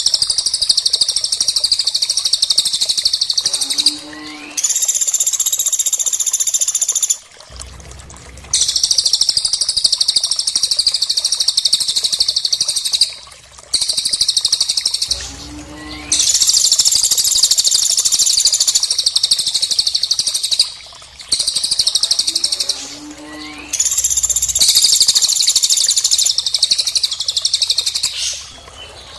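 Recorded calls of a cililin and a woodpecker (pelatuk), looped as a songbird training track. They come as long runs of rapid, high-pitched chattering trills lasting several seconds each, broken by short pauses. A short rising note and a brief low note come between some of the runs.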